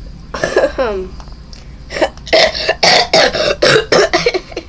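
A person coughing: a short voiced throat sound near the start, then a rapid run of about eight coughs in the second half, which the cougher puts down to a little sore throat.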